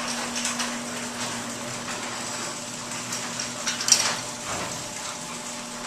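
Electric garage door opener raising a two-car garage door: a steady motor hum with clicking and rattling from the door as it travels up its tracks.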